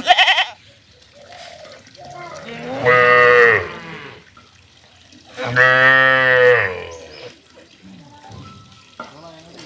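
Cow mooing: two long, loud moos about three seconds apart. A brief high-pitched animal call sounds at the very start.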